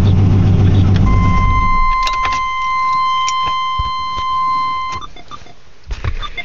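1995 Chevy Silverado's 355 V8 with Flowmaster exhaust being shut off, its rumble dying away about a second and a half in. A steady electronic warning tone from the truck sounds for about four seconds, with a few clicks and a key rattle, then cuts off.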